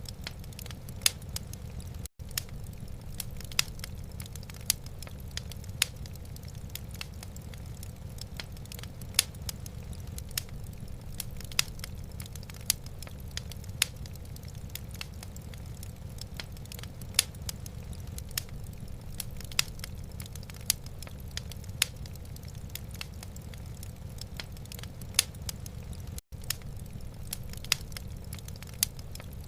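Wood fire crackling in a fireplace: irregular sharp pops and snaps, a few each second, over a steady low rumble. The sound drops out for an instant twice.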